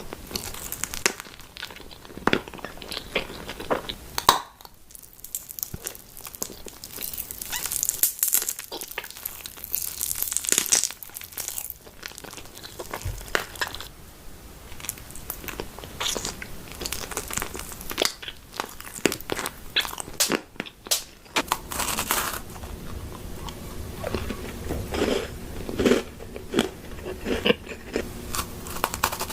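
Close-miked eating of crunchy food: repeated crisp bites and chewing with many sharp, irregular crackles.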